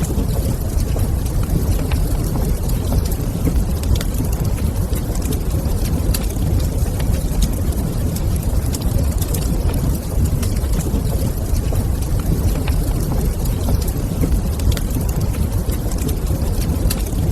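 Wood fire crackling in a stone fireplace: sparse sharp pops and ticks over a steady low rumble.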